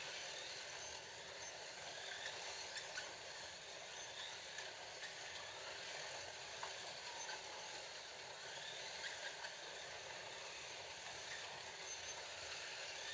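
Scalextric slot cars running laps on a plastic track, a steady whir of their small electric motors and tyres, with a few faint clicks.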